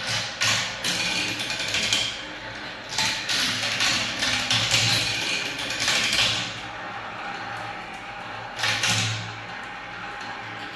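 Marbles rolling and clattering down a spiral marble-run track, with many quick clicks over a rushing roll. The clatter is busiest for the first six seconds, eases off, then comes back briefly about nine seconds in.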